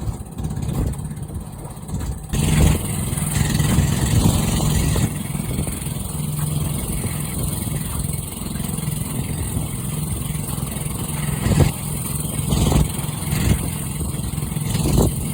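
Motorboat engine running steadily under way, getting louder about two seconds in, with a hiss over it and a few sharp bursts of noise.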